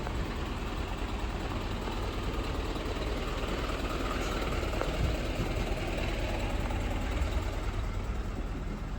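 City street traffic, with a vehicle engine running close by at a steady level.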